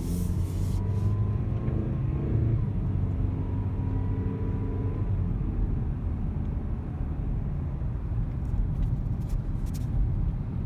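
2017 Mazda CX-5 accelerating, its engine note carrying a thin high whine for the first five seconds or so, after which only steady rumble remains. The dealership calls the whine normal; the owner believes it is not.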